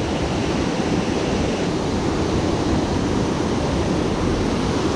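Water pouring over a dam, a man-made waterfall, making a steady, unbroken rush.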